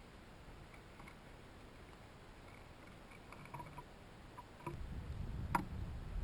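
Small birds and chipmunks at hanging seed feeders: scattered faint ticks and taps, busier a little past halfway, then one sharp click near the end. A low rumbling noise comes in about three-quarters of the way through.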